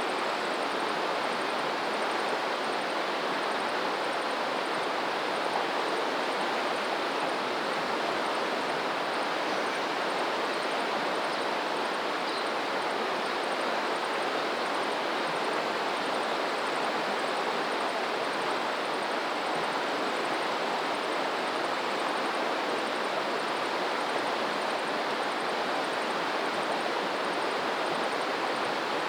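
Flowing water: a steady, even rush, as of a stream or river running over stones.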